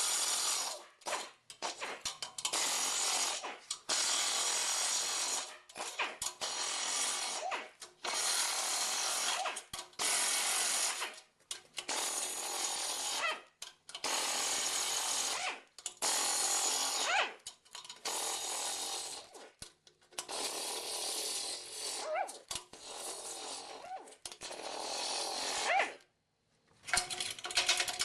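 Repeated bursts of a power tool, about a dozen, each one to two seconds long with short gaps between them.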